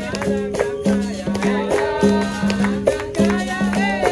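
Capoeira roda music: a berimbau's steady low notes and rattle keep a rhythmic pattern that repeats about every second and a half, with percussion strikes and voices singing over it.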